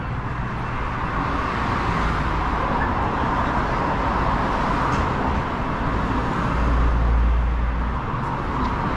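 Road traffic on a city street: a steady wash of tyre and engine noise, with a deeper rumble from a heavier vehicle swelling about two-thirds of the way through.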